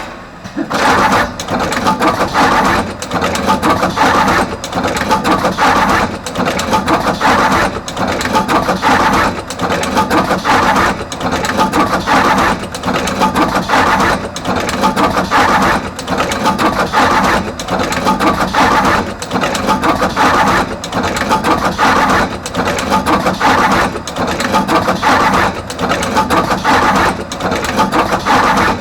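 Artos CR22 automatic wire cut-strip-crimp machine running production, processing wires and crimping terminals on both ends. Each cycle brings a burst of clattering mechanism noise with a short pause between, repeating steadily about once a second.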